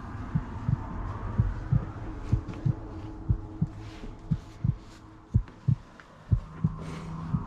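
Footsteps thudding at an even pace, about three a second, on a floor that feels spongy underfoot, with a faint steady hum behind.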